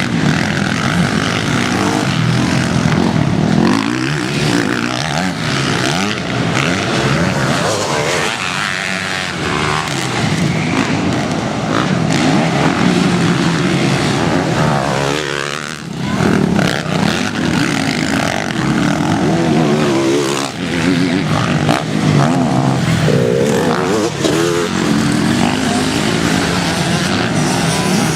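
Motocross bikes' engines revving up and down as they ride the track, several overlapping engine notes rising and falling, with a brief drop in level about halfway through.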